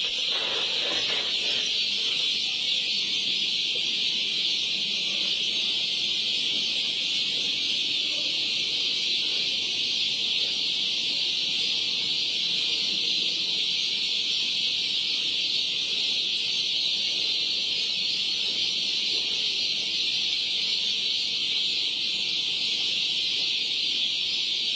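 Dense, continuous peeping of a large flock of poultry chicks inside a flooded poultry house, a steady high-pitched mass of overlapping calls with no break.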